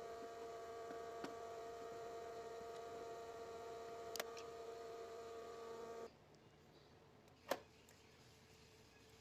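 A small electric motor hums steadily, then switches off abruptly about six seconds in. A single sharp click follows a little later.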